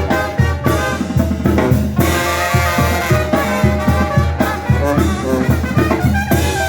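Brass band music with drums playing a steady, even beat.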